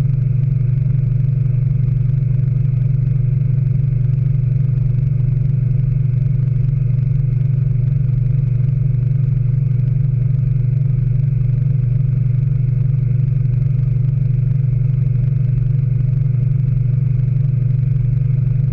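Speed Queen AWNE92 top-load washing machine in its final spin, the drum spinning at a steady speed with a constant low hum and whir from the motor and drive.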